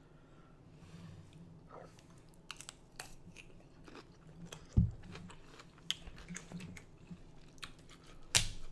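Close-miked crunching and wet chewing of raw cucumber, with a run of crisp crackles and clicks. There is one low thump a little before halfway, and a sharp crack near the end.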